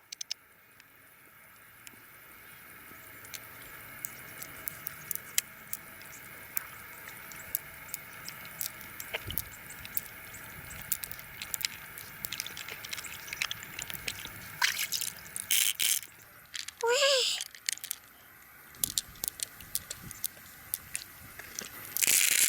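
Water sloshing and dripping, with many scattered sharp clicks and a few louder noisy bursts.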